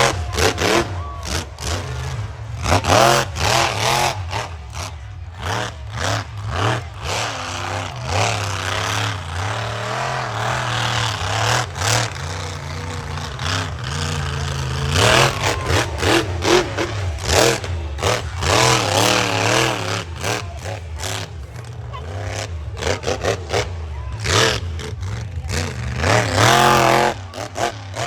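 Monster truck engine revving hard, its pitch swinging up and down again and again over a steady low rumble, with many sharp cracks throughout.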